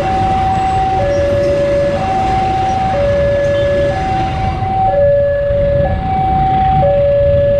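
Railway level-crossing warning alarm sounding a steady two-tone high-low pattern, each tone held about a second. Under it is the low rumble of a passenger train rolling past.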